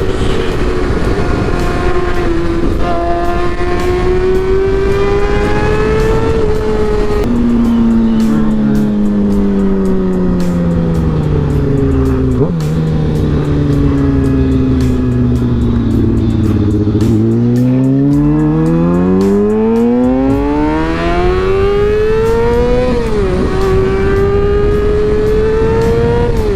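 Motorcycle engine heard from the rider's own bike: it holds a steady cruise, then the engine speed falls slowly for about ten seconds as the bike slows. It then climbs as the bike accelerates, drops sharply at a gear change near the end, and runs steady again.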